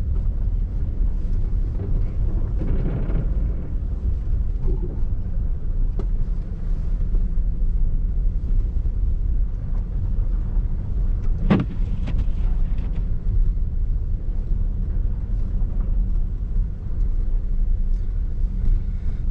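Inside a car driving on snowy roads: steady low rumble of engine and tyre noise in the cabin, with one brief sharp sound a little past halfway.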